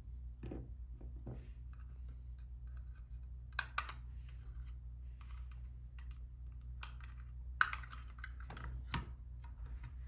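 Light, irregular clicks and taps of small lens parts and tools being handled, with a few soft rubbing sounds, over a steady low hum.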